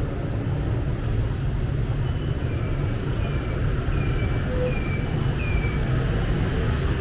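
Steady low rumble of road traffic. About two to six seconds in, a run of short, high, falling chirps sounds over it.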